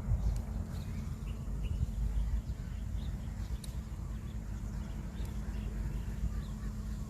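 Short, faint bird chirps scattered through a steady low rumble.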